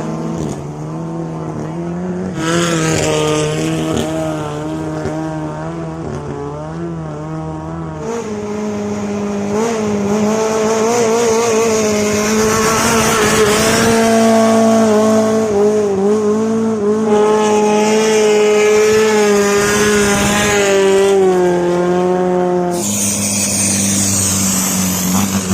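Long-tail racing boat engine running at high revs, its pitch wavering up and down. The sound changes abruptly several times as separate runs are cut together.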